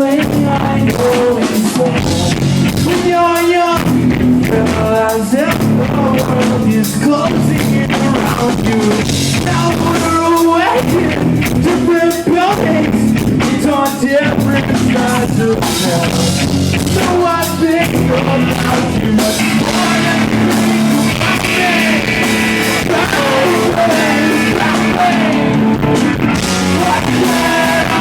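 Live rock band playing a song, with sung vocals over electric guitars and a drum kit. The singing comes in phrases through the first two-thirds, then gives way to busier guitar lines over the drums.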